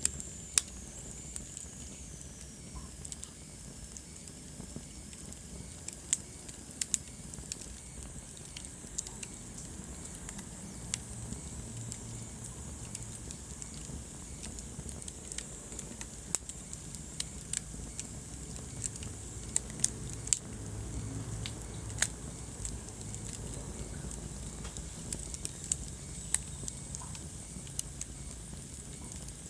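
Wood fire burning in a fireplace, crackling with irregular sharp pops over a steady low rumble and hiss. A faint high whistle glides down in pitch in the first couple of seconds.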